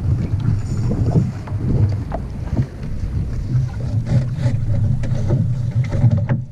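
Wind buffeting the microphone with a steady low rumble, with a few light knocks from the small sailboat's gear being handled during casting off, mostly near the end.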